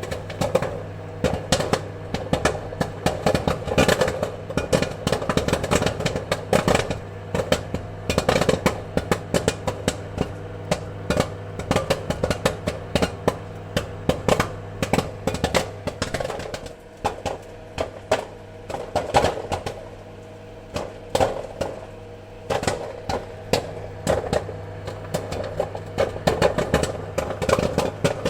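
Popcorn kernels popping: many sharp, irregular pops in quick succession over a steady low hum. The popping thins out somewhat in the middle and picks up again toward the end.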